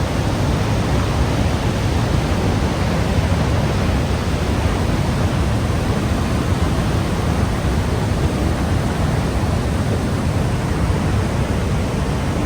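Water of the Niagara Falls rushing: a loud, steady, even noise that does not change.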